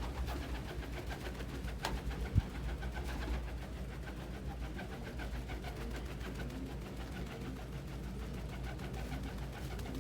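Domestic pigeons cooing at intervals in low, arching calls, with one sharp thump about two and a half seconds in.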